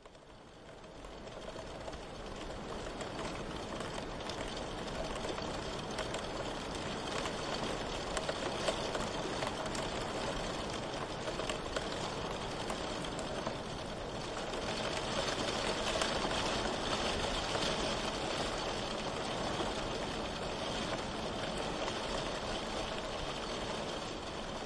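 Steady rain with pattering drops, fading in over the first couple of seconds and then holding steady.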